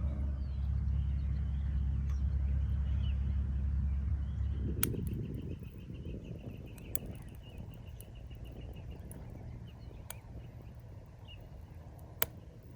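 Small birds chirping and singing over a low rumble that stops about five seconds in. A few scattered sharp snaps or clicks follow.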